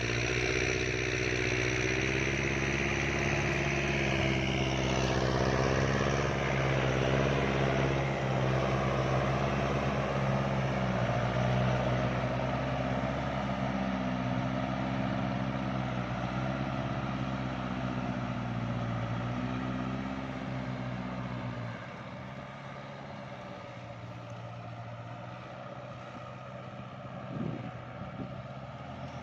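Kubota tractor diesel engine working under load while rotary-tilling a wet paddy field, its pitch rising and dipping as the load changes. It becomes quieter about three-quarters of the way through.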